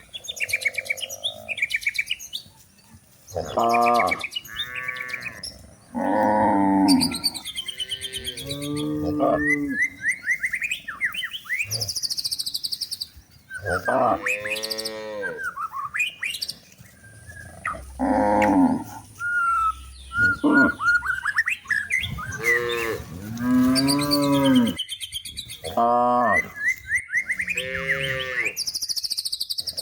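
Several cows mooing over and over, a dozen or more long calls that rise and fall in pitch, some overlapping, with birds chirping between them.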